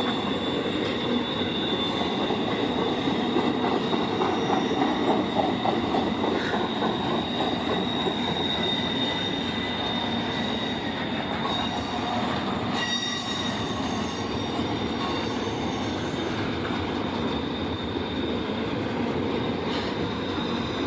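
CSX freight train rolling past, a steady rumble of cars on the rails with wheels squealing in thin high tones.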